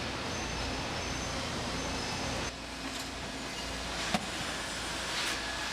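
Steady machinery hum and noise of a factory floor. The sound changes about two and a half seconds in, and there is a single sharp click about four seconds in.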